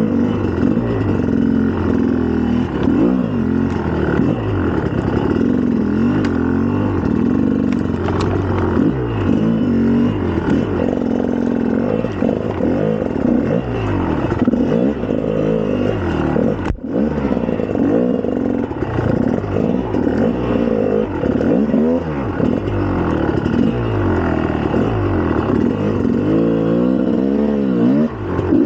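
2004 GasGas EC300 two-stroke enduro engine being ridden, revving up and down over and over as the throttle opens and closes. There is a brief cut in the sound a little past halfway.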